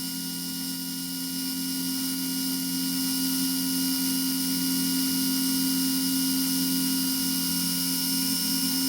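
Small milling machine running at about 1200 rpm, its 8 mm three-flute carbide end mill taking a 20 thou cut across rough-sawn aluminium bar; a steady hum with a low two-note tone and fainter high whine.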